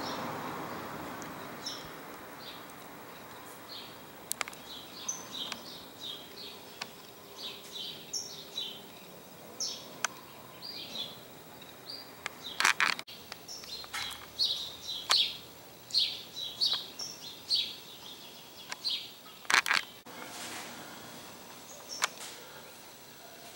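Small birds chirping in many short, high calls. A rushing noise fades out at the start, and a few sharp clicks stand out above the chirps, the loudest about two-thirds of the way through.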